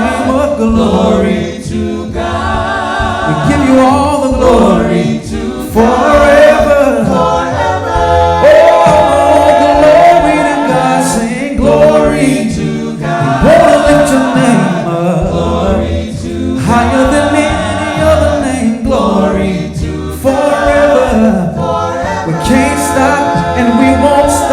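Gospel worship singing: a group of voices sings a slow praise song in long held notes with vibrato.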